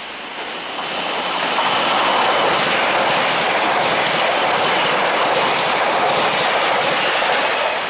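A Northern class 331 electric multiple unit passing through the station. Its running and wheel noise builds over the first second and a half into a steady loud rush with a faint high whine, then eases slightly near the end.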